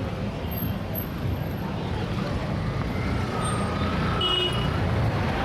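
Heavy city traffic: a steady low rumble of vehicle engines, with a faint high tone about three seconds in.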